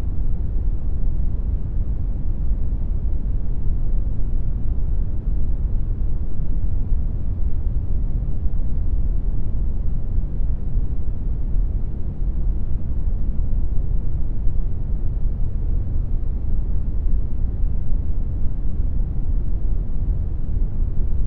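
Steady brown noise: an even, deep rumble of synthetic noise, strongest in the lows and fading toward the highs, unchanging throughout.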